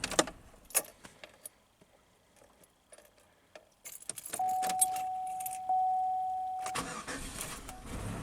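Keys jangling at the ignition of a 2001 Pontiac Aztek, a quiet pause, then its 3.4 L V6 being cranked over to restart after its revs sagged. The cranking carries a steady whine and comes in stretches from about four seconds in.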